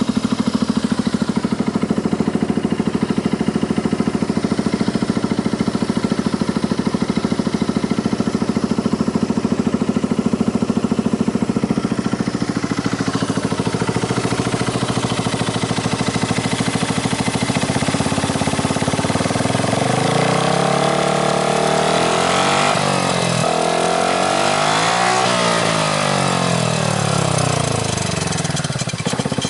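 Yamaha Grand Majesty 250 scooter's single-cylinder four-stroke engine, fitted with an aftermarket muffler, idling steadily. About two-thirds of the way in it is revved up and down several times, then it drops back to idle near the end.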